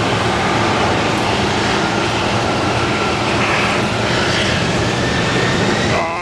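Airliner engines running: a steady rush with a faint whine rising slowly in pitch.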